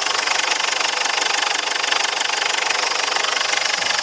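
Ford Ranger PK's 3.0-litre WE four-cylinder turbo diesel idling with a fast, even diesel clatter, turning away nicely.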